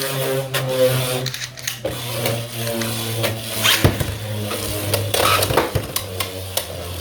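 Beyblade X tops Hells Scythe and Rhino Horn spinning and battling in a plastic stadium. There is a fast mechanical rattle of the tips running on the stadium floor, broken by sharp clacks as the blades hit.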